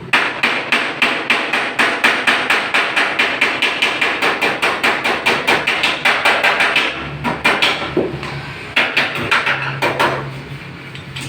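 Hammer beating out a dent in the sheet-metal body of a crashed Suzuki Alto: a fast, even run of sharp metallic strikes, about five a second, with a short pause near the end before a few more blows.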